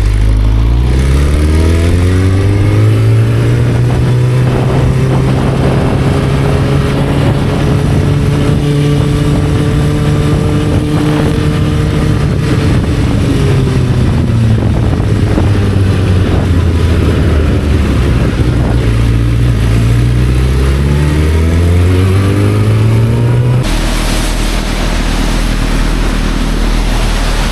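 Motorcycle engine pulling away and rising in pitch, holding steady at speed, dropping back, then rising again. About 24 seconds in it gives way suddenly to a steady rushing hiss.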